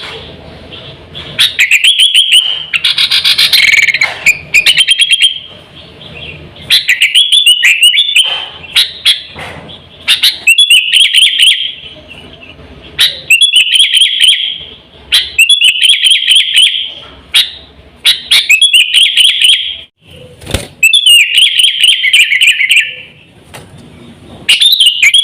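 Sooty-headed bulbul (kutilang) singing loudly. It repeats short phrases of quick whistled notes, one phrase every two seconds or so, with brief pauses between.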